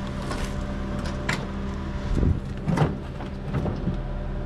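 A few knocks and clicks as a piece of curbside junk is picked up and handled, over a steady low engine hum.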